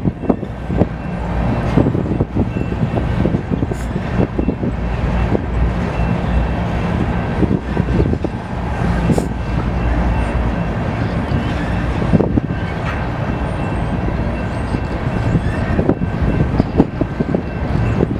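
BNSF train rolling past: a steady low rumble of wheels on rail with many short clanks and knocks, and faint thin high tones running through it.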